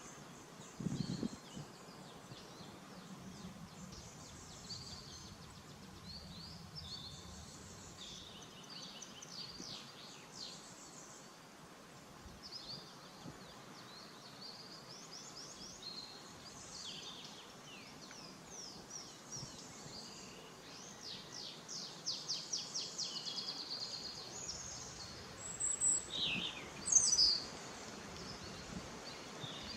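Small birds singing and chirping over a faint steady hiss, with a fast trill about two-thirds of the way through and a few louder, sharper calls near the end.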